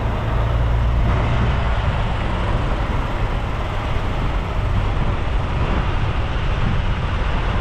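Truck engines running, a steady low engine drone under an even noise of traffic.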